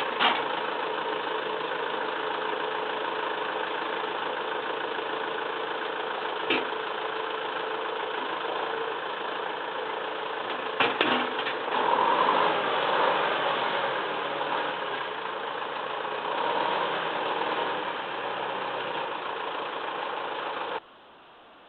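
Massey Ferguson 2635 tractor's diesel engine idling steadily, with two sharp knocks about six and eleven seconds in and a brief rise in engine sound around twelve seconds. The sound cuts off abruptly near the end.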